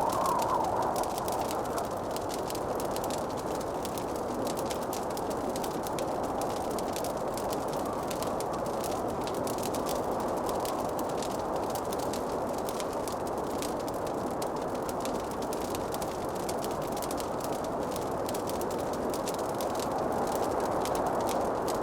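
Wood fire crackling in a fireplace: a steady soft rushing hiss with many small, sharp crackles and pops.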